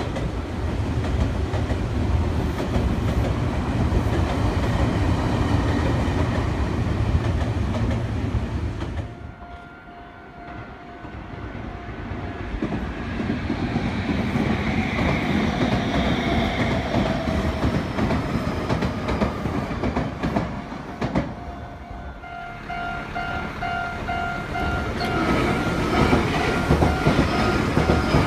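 Meitetsu electric trains passing at a level crossing, wheels clattering over the rail joints. A first train runs past and fades about nine seconds in; another passes after it. Near the end a level-crossing warning bell rings in quick repeated strikes as a further train draws near.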